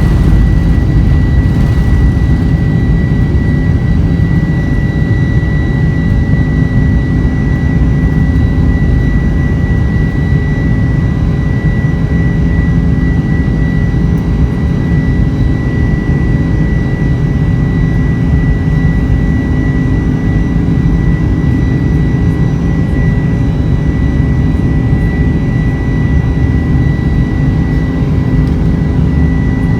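Boeing 747-400's four jet engines heard from inside the passenger cabin, a loud steady rumble with a constant high whine on top, as the airliner climbs out after takeoff.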